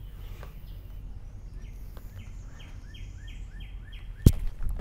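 A bird calling a quick run of about seven repeated chirps, over steady outdoor background noise. Near the end comes a single sharp crack, the loudest sound.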